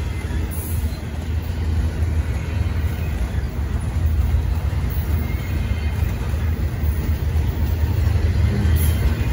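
Double-stack intermodal container train rolling past: a steady low rumble of steel wheels on rail, with faint high ringing tones above it.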